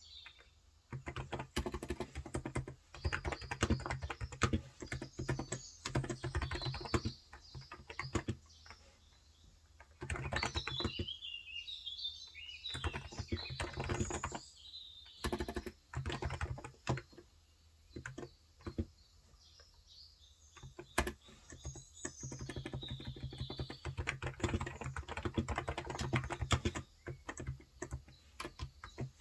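Typing on a Cox Endeavor tenkeyless electrostatic capacitive (Topre-style) keyboard with light 35 g switches: runs of soft, rapid keystrokes broken by short pauses. Birds chirp in the background, most clearly about halfway through.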